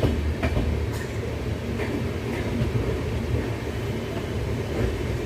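Indian Railways passenger coach running along the track, heard from inside: a steady low rumble with a few sharp clacks of the wheels over rail joints in the first couple of seconds.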